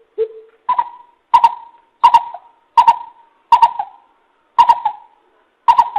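Coucal (bìm bịp) calling: a series of deep, evenly spaced hoots, two lower ones and then about seven higher ones, each starting with a sharp click.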